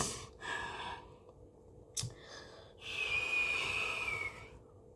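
A person breathing close to the microphone: a click and a short breath, another click about two seconds in, then a long, slightly whistling exhale like a sigh lasting about a second and a half.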